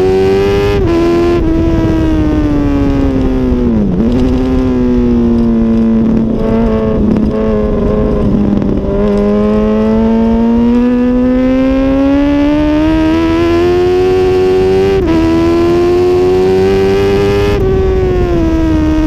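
2006 Honda CBR1000RR's inline-four engine at racing revs, heard from on board. Its pitch drops about four seconds in, holds low and steady through a long corner, then climbs steadily, with short breaks about fifteen and seventeen and a half seconds in, and falls again near the end.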